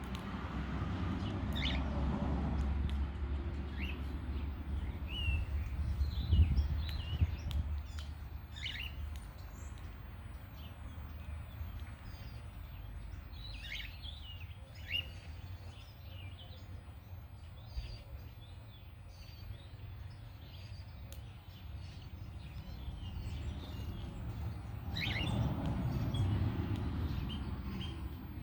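Birds giving short, scattered chirps over a low rumble, which swells in the first few seconds and again near the end.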